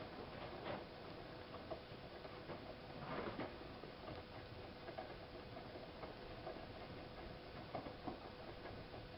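Siemens iQ 1430 front-loading washing machine running a 90°C boil wash: faint, irregular clicks and knocks from inside the turning drum over a steady low hum, with a slightly louder knock about three seconds in.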